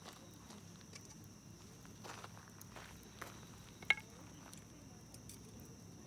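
Wood campfire crackling, with scattered soft pops and one sharp, louder pop about four seconds in, over a faint steady high tone.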